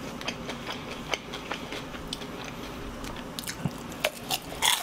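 Close-miked eating of fried chicken: biting and chewing with irregular small wet clicks and crunches. The clicks come more often near the end, as another piece goes into the mouth.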